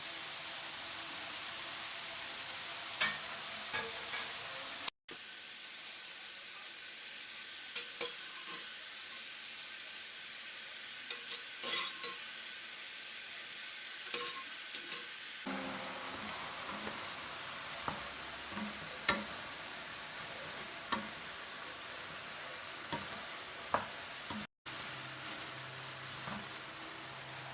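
Food sizzling steadily in a frying pan while being stirred, with scattered clicks and knocks of a utensil against the pan. Two brief silent gaps break it.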